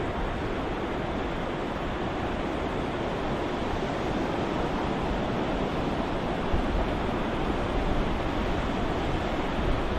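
Ocean surf soundscape: a continuous rushing wash of waves, fairly steady with small swells in level and no separate breaking crashes.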